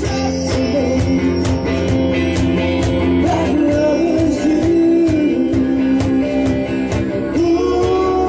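Live band playing a pop-rock song: sustained guitar and keyboard-like chords under a melodic line that bends in pitch, with drums keeping a steady cymbal beat.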